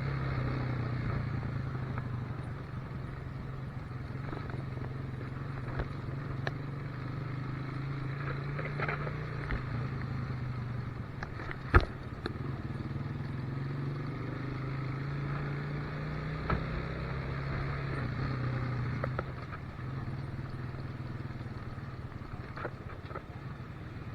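Motorcycle engine running while riding, its pitch rising and falling a little with speed and easing off after about 19 seconds. A single sharp knock about halfway through is the loudest moment.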